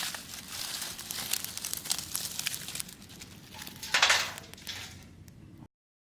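Dry wood and tinder crackling and rustling, with many small snaps and one louder rushing burst about four seconds in. The sound cuts off suddenly near the end.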